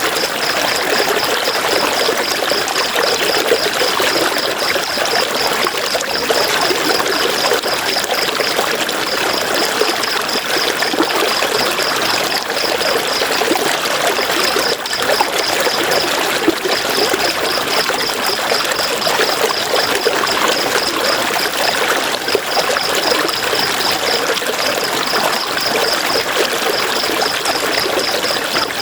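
River water rushing and splashing over rocks, a steady, even, loud flow. Over it, a high-pitched rapid pulsing sound comes in runs of a few seconds with short breaks.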